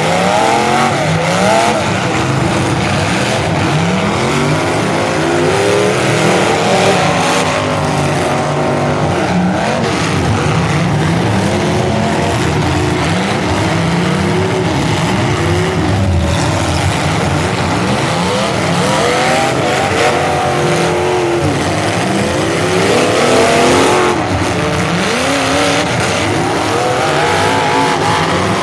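Several full-size demolition derby cars' engines revving hard at once, their overlapping notes rising and falling as the cars accelerate, back up and ram each other.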